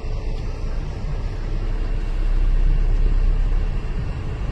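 Steady low rumble of a car, with a noisy wash over it, growing somewhat louder about two seconds in.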